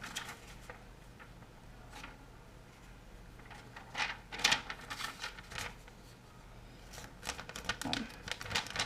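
Light clicks, taps and rustling of small objects being handled and arranged by hand, in scattered clusters about four seconds in and again near the end, with quiet stretches between.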